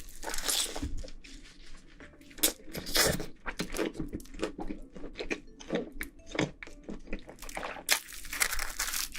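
Close-miked chewing of pizza: a run of short, irregular crunches and mouth sounds.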